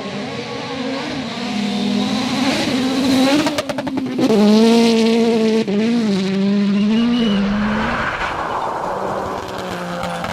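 Car engine revving, its pitch holding steady and then dipping and rising a few times, loudest in the middle. A quick run of clicks comes about three and a half seconds in.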